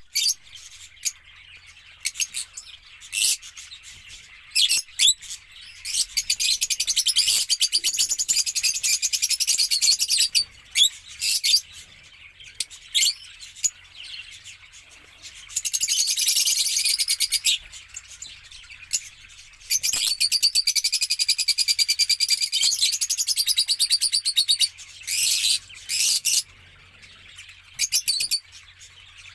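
Small pet parrots chattering in high-pitched, rapid strings of chirps. Bouts last a few seconds each and are broken by short gaps with single chirps.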